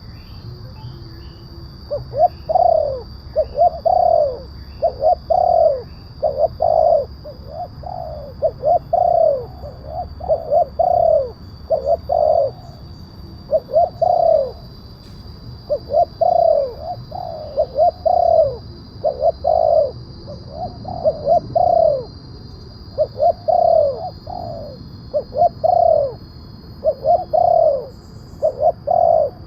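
Spotted dove (tekukur) cooing: loud, repeated runs of short, arched coo notes, one phrase after another with brief gaps. It is a recorded call used as a lure to draw wild doves in.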